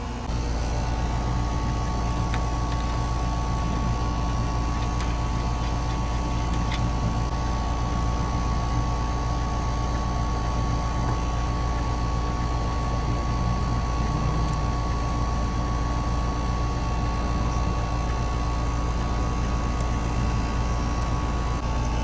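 Air-conditioning equipment running with a steady mechanical hum, made up of fixed low and mid tones over a constant rushing noise.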